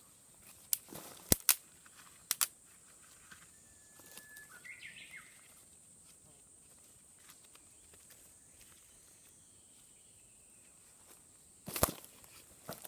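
Quiet outdoor ambience with a few sharp clicks near the start and a louder one near the end, a bird calling briefly about four to five seconds in, and a faint steady high tone underneath.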